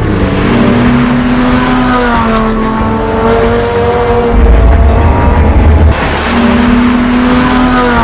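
Sports car engine running loudly over background music, with a heavy bass swell in the middle.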